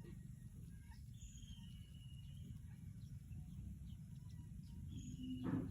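Faint bird chirps over a steady low rumble, with one drawn-out higher note about a second in and a sharp knock just before the end.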